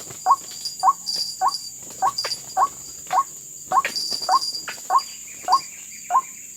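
White-breasted waterhen (ruak-ruak) calling: a dozen short rising notes, about two a second, at a very even pace. Behind them runs a steady high drone of crickets.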